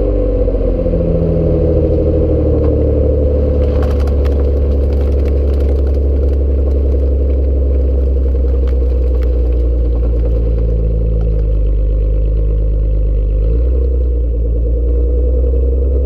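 Loud exhaust note of a Nissan Altima SE-R's 3.5-litre V6, recorded close to the exhaust: a deep steady rumble whose pitch falls in the first second and then drifts gently with engine speed. Its tone changes about 13 seconds in, and a scatter of sharp clicks comes around four seconds in.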